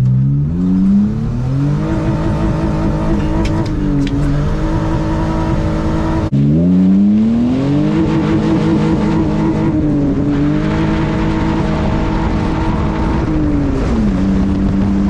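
BMW E46 325ci's inline-six with a header-back exhaust, heard from inside the gutted cabin, accelerating: the pitch rises over the first couple of seconds, breaks at a gear change about six seconds in, climbs again and holds, then drops near the end.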